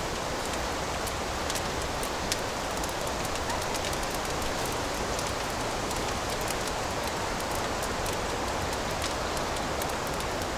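Fireplace fire crackling: a steady hiss with frequent small sharp pops scattered through it.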